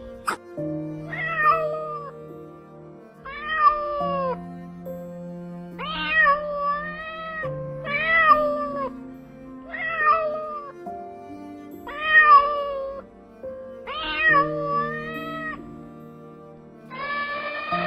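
Domestic cat meowing, seven separate meows about two seconds apart, over steady background music; a longer call begins near the end.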